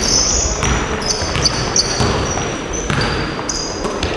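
Basketballs bouncing on a gym floor, with sneakers squeaking on the court in short, high-pitched chirps.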